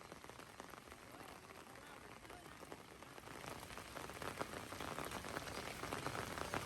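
Rain falling: a faint, even hiss of many small drop ticks, growing louder over the second half.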